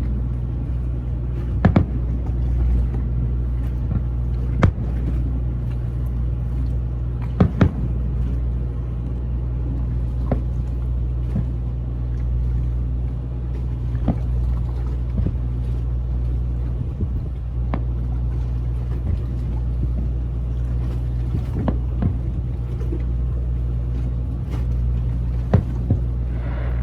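Steady low drone of boat machinery on a large motor yacht, with sharp thumps scattered through it every few seconds.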